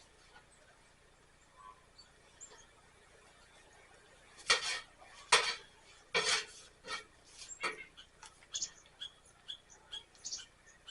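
Metal fire poker stirring a small wood fire: quiet for the first few seconds, then irregular clinks and knocks, several a second, from about four seconds in.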